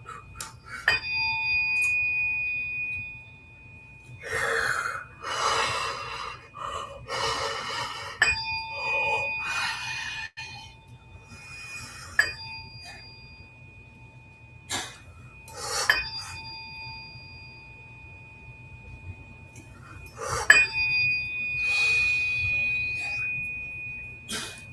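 Tuning forks struck about five times, each a sharp tap followed by a clear, high ringing tone that fades slowly over several seconds. Breathy whooshing sounds come in between strikes.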